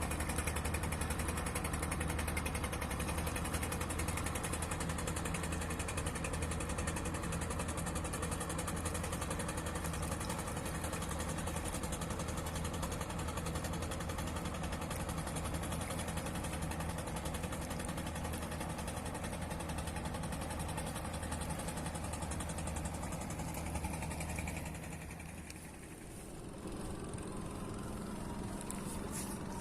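Fishing boat engine running steadily with a low hum. Near the end it fades out briefly, and then another engine comes in at a slightly higher pitch.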